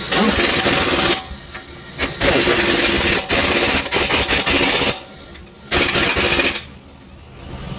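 A power tool running in three bursts with a loud, hissing, full-range noise: about a second at the start, about three seconds from two seconds in, then a short burst near the end.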